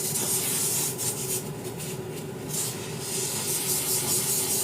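Hand work on a sneaker: uneven rubbing and scraping strokes, over a steady low hum.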